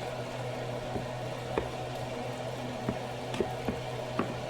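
Food simmering on the stove: a steady low hum under scattered small pops and crackles, about one or two a second.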